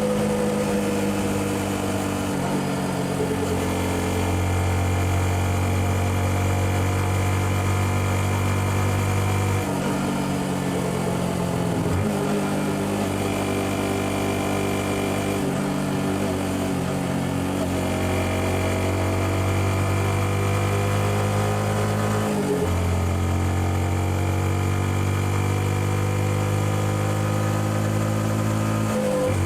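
Yamaha XSR 155's single-cylinder engine running through its stock exhaust while riding. The engine note falls at the start, then holds steady between several sudden shifts in pitch.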